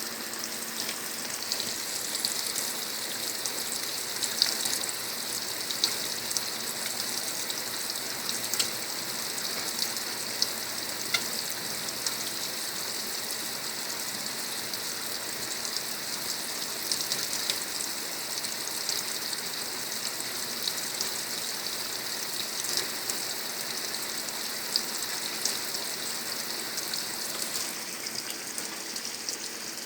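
Water spraying into the drum of a Brastemp Ative! 11 kg top-load washing machine as it fills: a steady hiss of water with small patters and splashes. The hiss eases slightly near the end.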